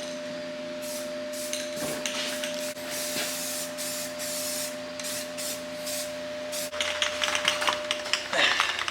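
Aerosol can of primer spraying onto bodywork in short bursts of hiss, then a quick run of clicks in the last couple of seconds.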